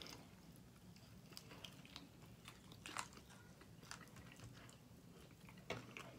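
Faint mouth sounds of people chewing chicken wings: soft wet smacks and clicks scattered through, the sharpest about three seconds in and again just before the end.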